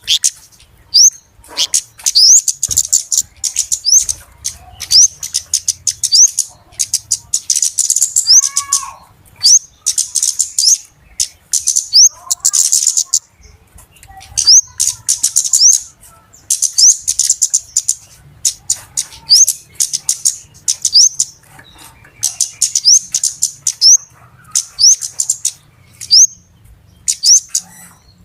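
Flowerpecker (kemade) calling excitedly: rapid, high-pitched ticking chips mixed with short upward-sweeping notes, in bursts of a second or two again and again. It is played as a lure call to draw the birds in.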